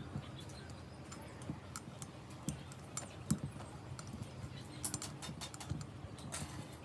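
Irregular light clicks and taps of small parts and tools being handled, over a faint steady hum.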